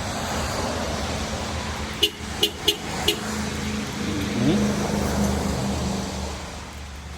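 A 2022 Dodge Charger Scat Pack's stock-exhaust engine running steadily with a low drone. Four short, sharp chirps come about two to three seconds in.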